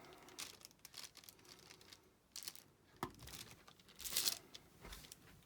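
Irregular crinkling rustles and light taps of plastic being handled while resin drills are picked up and pressed onto a diamond-painting canvas, the loudest rustle about four seconds in.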